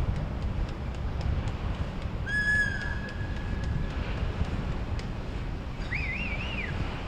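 Steady low rumble of wind and water at the waterfront, with a held whistle-like tone about two seconds in and a short warbling call near the end.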